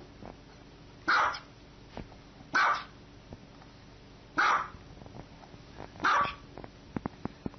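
A dog barking: four single, loud barks, each about a second and a half to two seconds apart.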